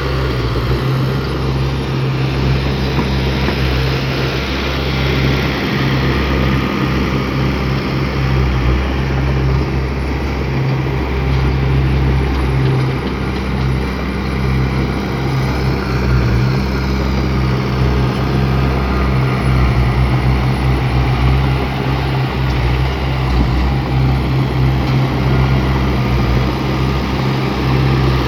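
Heavy diesel engine of a bulldozer running steadily with a deep, even hum and mechanical noise.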